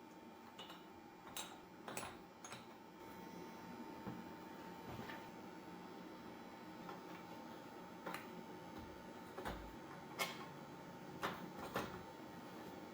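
Faint steady hum with a thin high tone, and a few scattered light clicks and knocks: two or three in the first few seconds and several more in the last five seconds.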